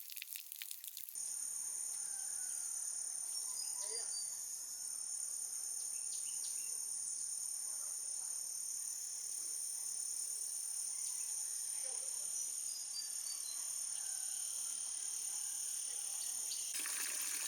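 Steady, high-pitched drone of jungle insects, with a few faint bird chirps. A rain-like water hiss takes over briefly at the start and again near the end.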